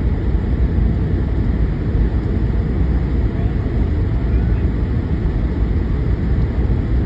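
Steady low rumble of a vehicle being driven, engine and tyre noise on an iced-over road, heard from inside the cab.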